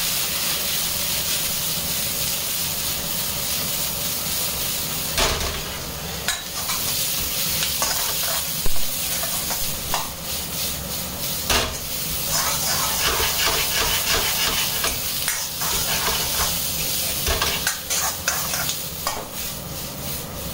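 Sliced onions sizzling in hot oil in a wok being tossed and stirred over a high gas flame, with a steady sizzle and scattered metal knocks and clatters as the wok moves.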